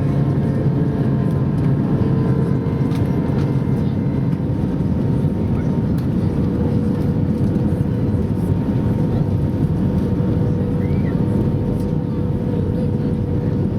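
Airbus A320 cabin noise in flight on approach: a steady drone of the engines and rushing airflow, with a few steady hum tones running through it.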